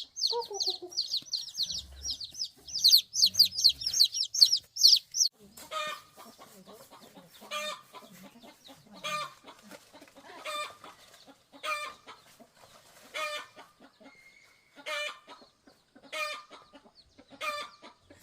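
Birds calling: a fast run of loud, high-pitched chirps for about five seconds, then a single call repeated about once every second and a half.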